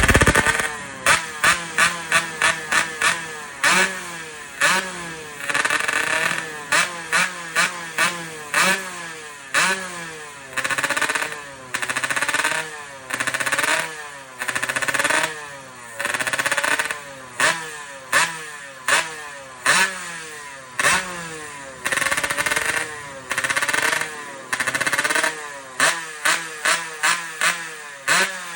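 Yamaha RX-King two-stroke motorcycle engine revved over and over through its exhaust, a howling note. Quick runs of short throttle blips near the start and end, and longer revs rising and falling in between, dropping back to idle between revs.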